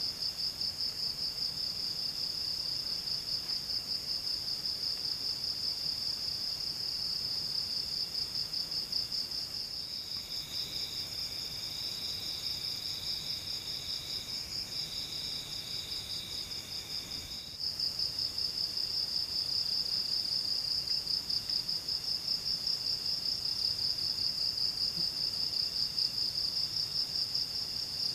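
Insects trilling in a continuous high, rapidly pulsing chorus, with a second, slightly lower insect call coming and going in short phrases. The chorus dips briefly about ten seconds in and again around seventeen seconds, then comes back louder.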